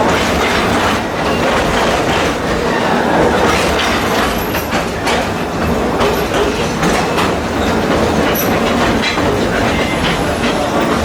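Narrow-gauge train heard from on board an open-air passenger car: a steady rumble of steel wheels on the track, with a few sharp clicks as the wheels pass over rail joints. The train is pulled by a 1928 Plymouth gasoline locomotive.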